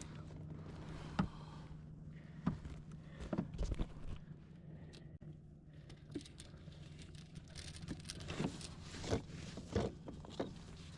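Scattered clicks, knocks and light metallic rattles of a fishing lure's treble hooks and tackle being handled on a kayak while a bass is unhooked, busiest near the end, over a steady low hum.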